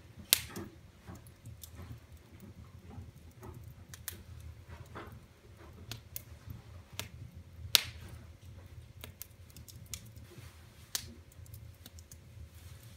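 Wood fire in a fireplace crackling, with irregular sharp pops; the two loudest come just after the start and about eight seconds in. A steady low hum runs underneath.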